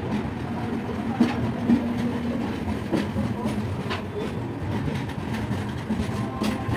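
Mangalore–Kacheguda SF Express passenger coaches rolling along the platform with a steady rumble, their wheels clicking over rail joints every so often.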